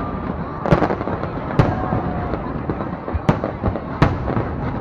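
Aerial fireworks display: shells bursting with sharp bangs about four times over a continuous crackle of smaller bursts, with faint whistles of rising shells in the first couple of seconds.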